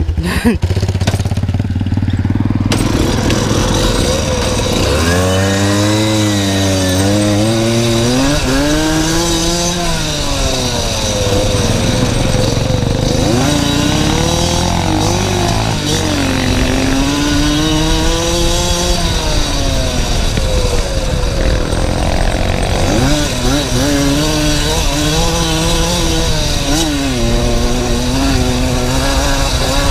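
Small motorcycle engine under way, revving up and dropping back again and again as the throttle opens and closes and the gears change, so the pitch rises and falls every few seconds.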